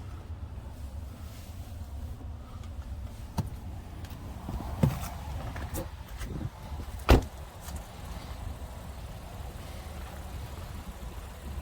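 A few short clicks and knocks, the loudest a sharp knock about seven seconds in, over a steady low rumble.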